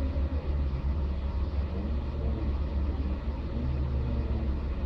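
BMW E36 320i's 2.0-litre 24-valve inline-six idling steadily, heard from inside the cabin as a constant low drone.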